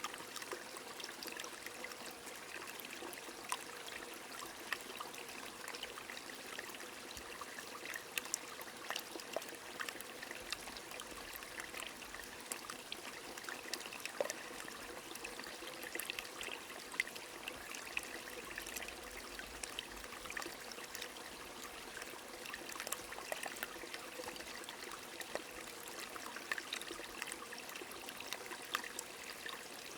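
Small stream trickling steadily, with rain falling and scattered sharp drop ticks throughout.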